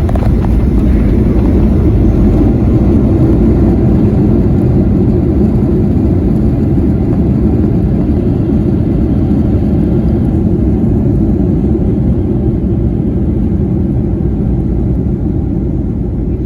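Loud, steady rumble inside the cabin of an American Airlines Boeing 737-800, from its engines and airflow, easing off slowly over the last few seconds.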